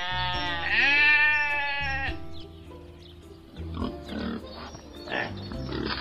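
A sheep bleats once, long and wavering, for the first two seconds. Then pigs grunt in short irregular calls. Background music with steady held notes plays underneath.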